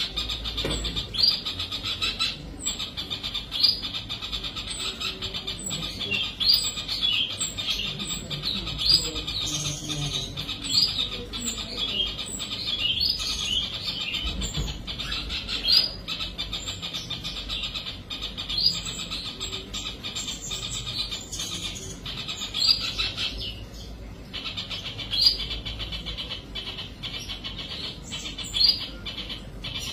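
Birds chirping: short, repeated chirps about every second, over a steady high-pitched background chorus.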